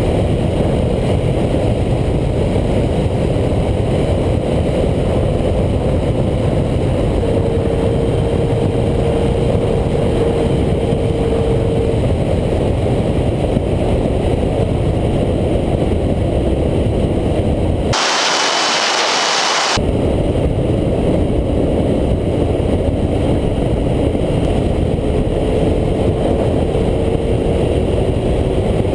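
Wind rushing over the microphone at speed on a 1989 Honda CBR250RR's 250cc four-cylinder, with the engine's steady whine held high in the revs underneath, running flat out. For about two seconds, two-thirds of the way through, the low rumble drops away and a hissing rush takes over.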